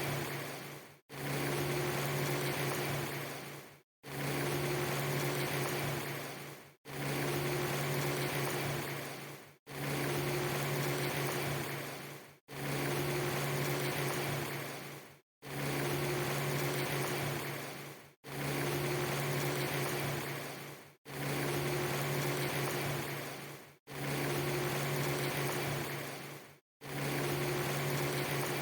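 Steady rushing noise over a low hum, cut into a short loop that repeats about every three seconds, each repeat fading out and dropping to a moment of silence before the next starts abruptly.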